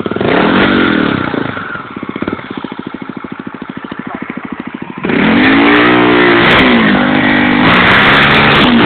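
Honda Tornado motorcycle's single-cylinder engine, bored to 340cc, given a quick blip and then idling with a fast, even pulse. About five seconds in it is revved hard and loud, its pitch rising and falling several times.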